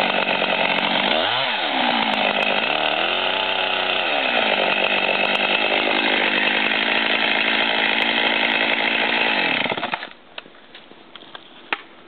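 Husqvarna chainsaw running at full throttle, cutting the felling notch into a poplar trunk; its pitch dips and recovers twice in the first few seconds. The engine winds down about ten seconds in, leaving a few light clicks.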